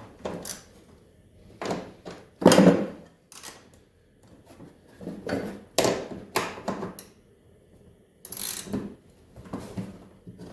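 Hand wrench working at a bolt on a snowmobile engine: irregular metallic clicks, clanks and scrapes, in a dozen or so short bursts with pauses between them.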